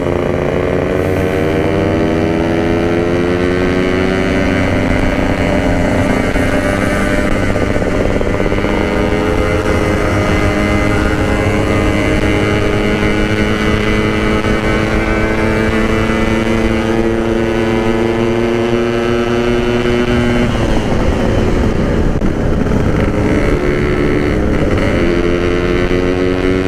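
Yamaha RX-King single-cylinder two-stroke motorcycle with a packed expansion-chamber exhaust, running under way at steady cruising speed. Its note climbs slowly and drops at gear changes about nine and twenty-one seconds in, over steady wind and road rumble.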